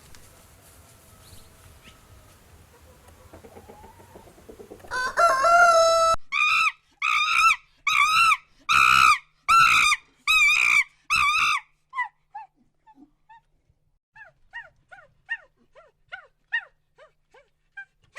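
Chicken calling: about five seconds in, one long crow-like call, then seven loud, evenly spaced calls. After these comes a run of fainter, short, falling calls.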